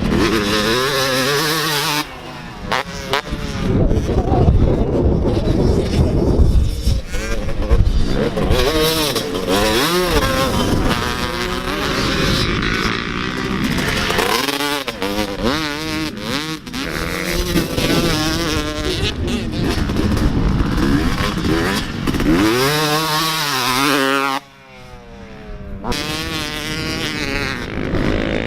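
Motocross dirt bikes racing past on the track, their engines revving up and down again and again as riders throttle on and off, several passes one after another.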